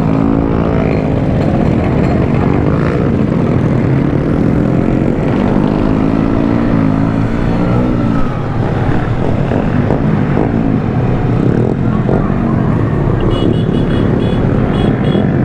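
Riding in a group of bikes: a dense rush of wind and road noise with the engines of nearby bikes rising and falling in pitch.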